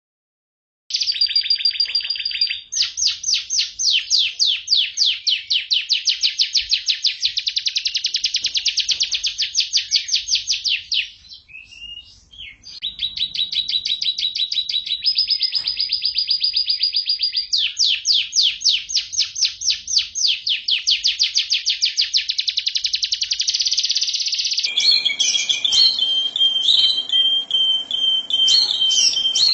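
Domestic canary singing long, very fast trills of high repeated notes, with a brief lull about halfway through. Near the end the song shifts to steadier held notes over more background noise.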